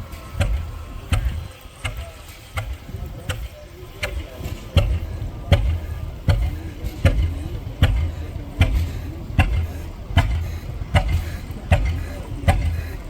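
Antique tractor engine running slowly, with a deep rumble and a sharp exhaust pop about every three-quarters of a second.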